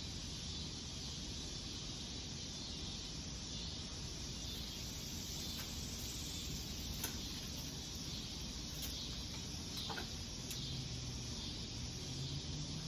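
Steady low background hiss with a few faint, scattered clicks.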